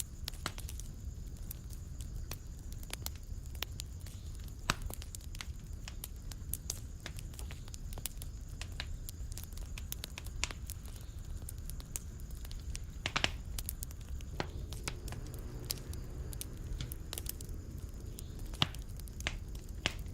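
Fireplace fire crackling: irregular sharp pops and snaps over a steady low rumble of the flames, with a few louder pops.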